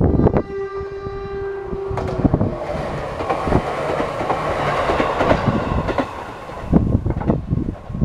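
A Nagano Electric Railway train sounds its horn in one steady note lasting just under two seconds, then rolls past with wheel and rail noise for about four seconds before the noise fades out.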